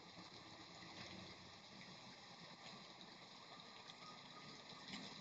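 Faint steady rain: an even hiss with a few scattered ticks of drops.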